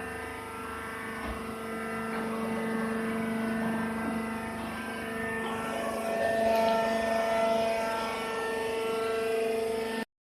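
Vertical hydraulic baler press running: a steady mechanical drone with a pitched whine from its motor and hydraulic pump. It cuts off suddenly near the end.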